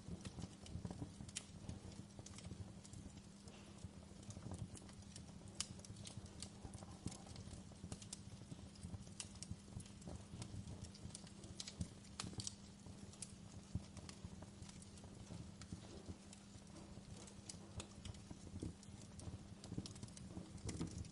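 Campfire crackling: irregular sharp pops and snaps, one every fraction of a second, over a low steady hum.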